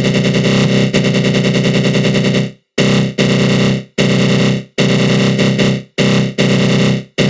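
Synthesized attack-growl sound effect: a buzzing electronic growl made with the GMS synth and a flanger. It sounds continuously until about two and a half seconds in, then comes as a series of short bursts a little under a second apart, each cutting off quickly.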